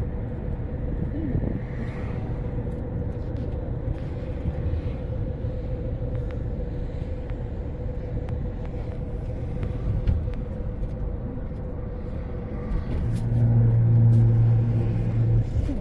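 Car on the move: steady low road and engine rumble with a constant hum. Near the end a louder low drone of another engine or vehicle swells for about two seconds.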